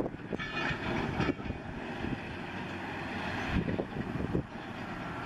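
Heavy earthmoving machinery working: a diesel engine running under load with irregular knocks and a brief hiss a little under a second in.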